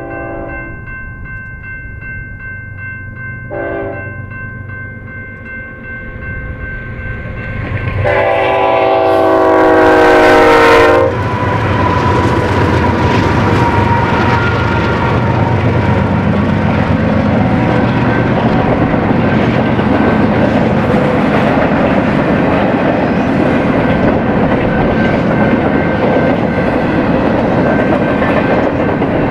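BNSF freight locomotive's horn: a short blast, then a long, loud blast from about eight to eleven seconds in that cuts off suddenly. After the horn comes the steady noise of the train rolling past, with wheels clattering on the rails.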